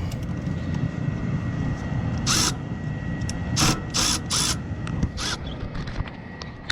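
Ratchet wrench clicking in five short bursts a second or less apart, as it turns a nut on the generator's battery cable terminal.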